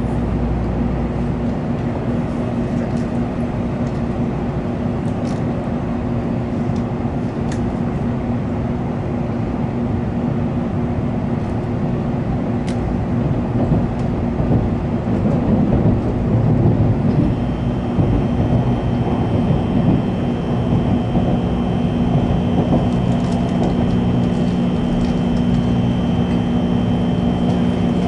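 Running noise of an N700-series Shinkansen heard from inside the car: a steady low rumble with a constant hum. About two-thirds of the way in, a second, lower hum and a high, thin whine join it.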